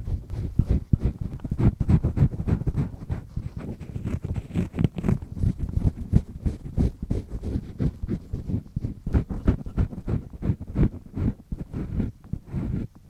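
Double-disc ear pick scraping and scratching firmly in an ear close to the microphone, in quick, uneven strokes that run on without a break.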